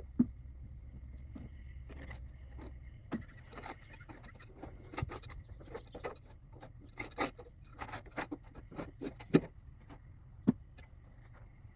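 Irregular metallic scrapes and clinks of hand tools cleaning packed debris out from around a hydraulic cylinder, the loudest knock about nine seconds in.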